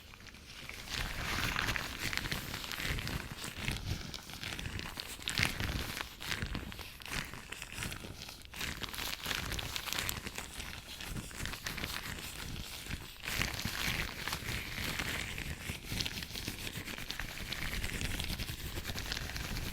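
Latex gloves rubbing and crinkling close to the microphone, a continuous crackly, squeaky rubbing with many small clicks.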